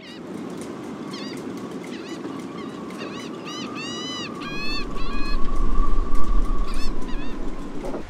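Birds calling: many short rising-and-falling cries, with a denser run of calls about four seconds in. A faint steady hum sits under them, and a low rumble comes in about halfway, is the loudest part, and fades near the end.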